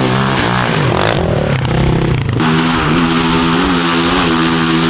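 Off-road engine running loudly with the throttle changing: the note wavers and drops in the first two seconds, shifts abruptly a little past halfway, then holds steadier with brief blips of revving.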